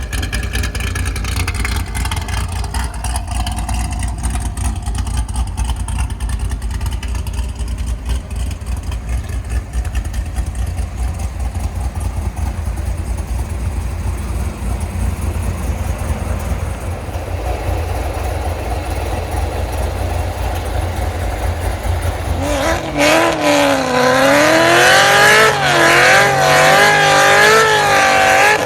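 Supercharged Corvette C6 Z06's 7.0-litre LS7 V8 running through a Corsa exhaust with a steady deep rumble. About 22 seconds in it gets louder, and a wavering, squealing high tone rises and falls over the engine until the end.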